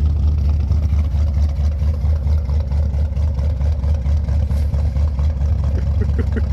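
1978 Ford Thunderbird's V8 with dual exhaust idling steadily just after a cold start, the low exhaust rumble pulsing evenly as the cold engine runs.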